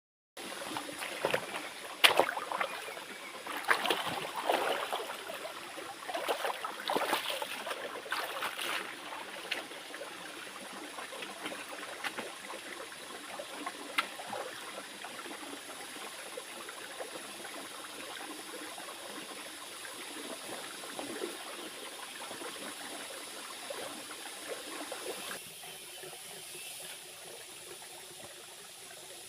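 Stream water flowing steadily, with irregular knocks and rustles over the first nine seconds. The sound thins suddenly about 25 seconds in.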